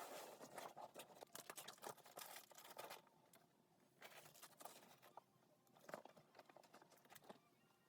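Near silence with faint scattered clicks and rustling, thicker in the first few seconds and thinning out after.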